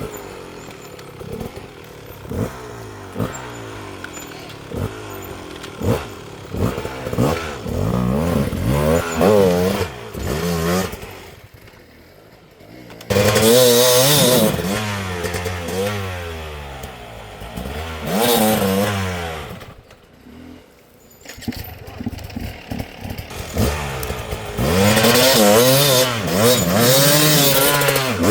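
Off-road dirt bike engines revving hard, the pitch rising and falling over and over as the riders blip and hold the throttle. Two short quieter gaps fall between runs, and the level jumps back up suddenly after each.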